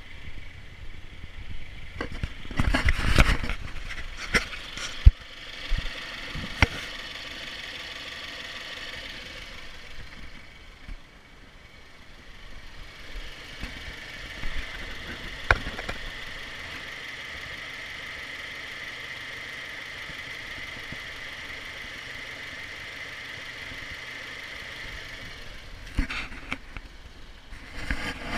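2014 Subaru Forester XT's turbocharged flat-four engine idling steadily. Several sharp knocks and clicks are heard over it, a cluster in the first few seconds and more near the end.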